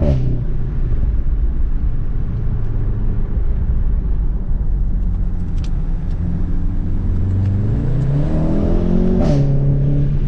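Volkswagen Golf 7 R's turbocharged 2.0-litre four-cylinder through an Akrapovic exhaust, heard under hard driving in race mode. The revs drop sharply with a crack from the exhaust right at the start, hold steady, then climb for a couple of seconds near the end and drop again with another crack at a gear change.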